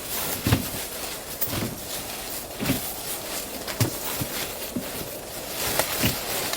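Slow footsteps in snow, a dull crunching thud about once a second, over a steady hiss.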